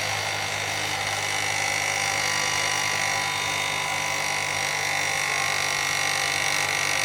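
An engine running steadily at high revs, with a steady high-pitched whine over a low hum.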